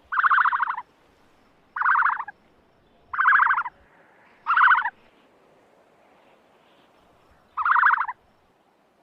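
An animal calling five times, each call a short rattling burst of about half a second, four in quick succession and the last after a longer pause.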